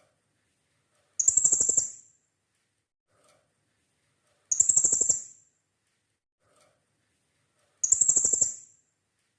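Blue-crowned hanging parrot (serindit) calling: three short bursts of rapid, high-pitched stuttering notes, each under a second long, repeating about every three seconds.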